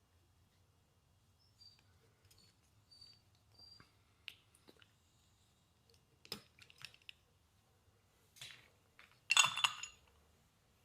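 Small metal parts and hand tools handled on a workbench: scattered light clicks and taps, then a louder, brief metallic clatter with a ringing tail near the end.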